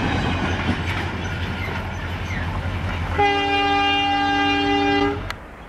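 A freight train running, with a steady low engine hum and track noise. About three seconds in, the locomotive sounds a two-second chord horn blast of several tones, and then the sound cuts off abruptly.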